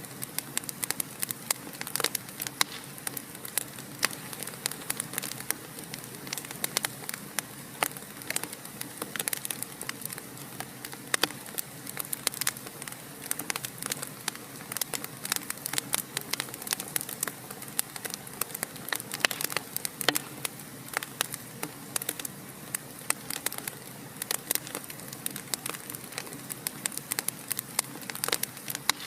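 Wood fire in a fireplace crackling, with many irregular sharp pops and snaps over a steady low hiss.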